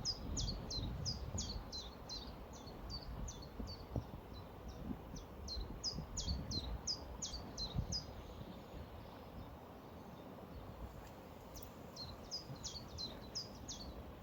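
A songbird singing a quick series of high, down-slurred notes, about two or three a second, breaking off for a few seconds past the middle and then resuming. Underneath is a low, steady rushing noise.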